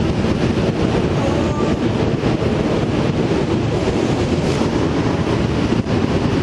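Steady rushing noise of a vehicle on the move, with wind buffeting the microphone.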